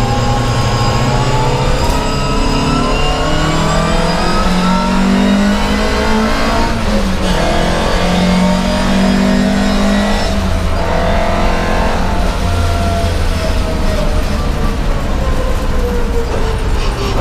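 Race-prepared Volvo 544 Sport's four-cylinder engine heard from inside the cabin, revving up with rising pitch, with brief dips about seven and ten seconds in, then a long falling note over the last five seconds as it comes off the throttle.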